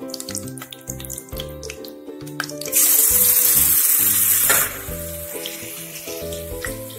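Ginger-garlic paste hitting hot oil in a kadhai and sizzling loudly for about two seconds, starting about three seconds in, over background music.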